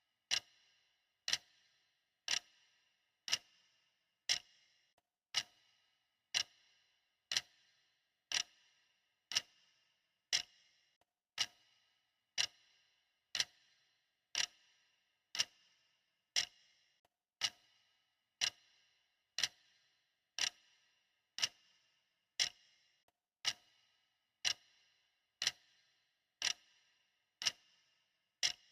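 Clock ticking steadily, about one tick a second; each tick is a sharp click with a brief ring.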